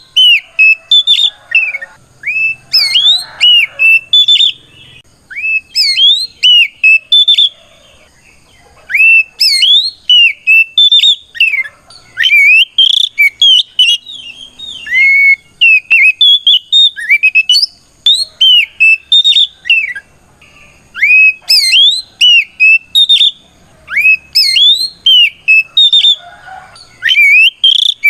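Oriental magpie-robin singing loudly, a rapid string of clear whistled notes with rising and falling slides, in phrases broken by short pauses. It is a fighting, challenging song calling out a rival.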